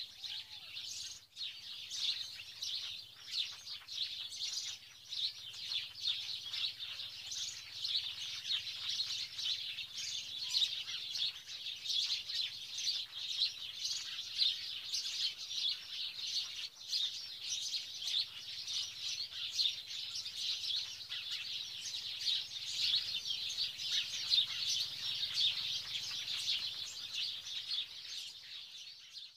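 Birds chirping continuously, many short calls overlapping in a dense chorus.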